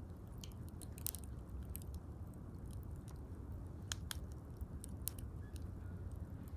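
Wood fire crackling: irregular sharp pops and snaps, a few louder ones about a second, four and five seconds in, over a low steady rumble.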